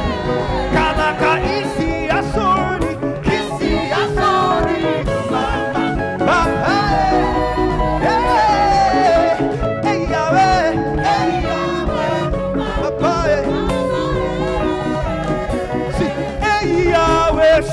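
Praise and worship music from a church band, with a voice singing over a steady beat.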